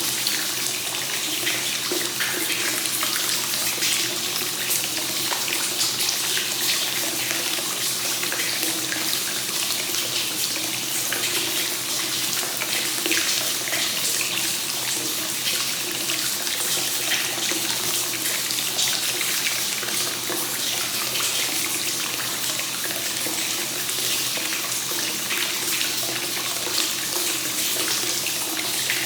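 Hot spring water pouring steadily from a spout into a bath, a continuous splashing trickle into the pool with no change in flow.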